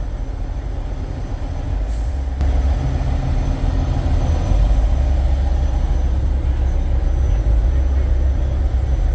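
Semi truck's diesel engine rumbling at low pitch, getting louder about two and a half seconds in, with a short hiss of air about two seconds in.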